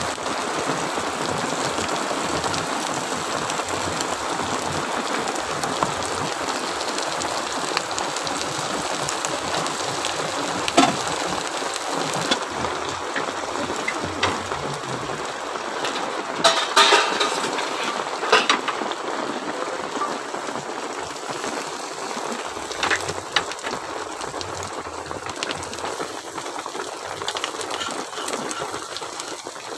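Fish roe frying in hot oil in a flat pan, a steady sizzle that eases somewhat toward the end. A metal spatula scrapes and taps against the pan a few times, mostly around the middle.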